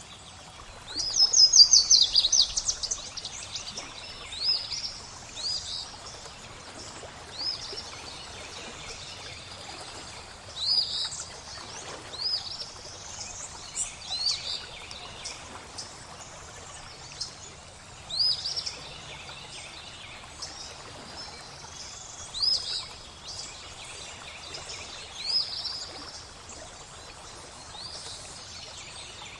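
Songbirds singing over steady flowing water. A fast trill about a second in is the loudest sound, then short high chirps come every couple of seconds.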